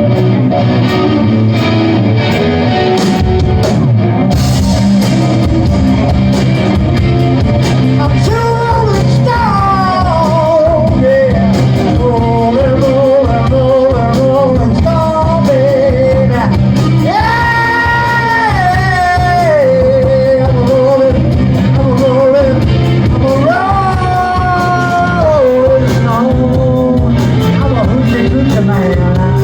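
Rock band playing live, heard through a mobile phone's low-quality recording: drums and bass under a lead melody that bends, wavers and holds long notes.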